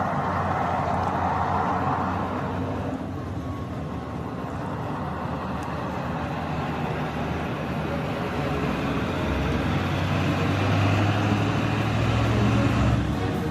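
Heavy truck engine running with road noise, a steady low drone that grows louder toward the end.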